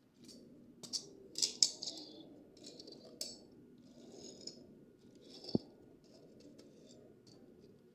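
Crinkling and clicking of toy packaging being handled and opened, in short irregular bursts, with one sharp click about five and a half seconds in.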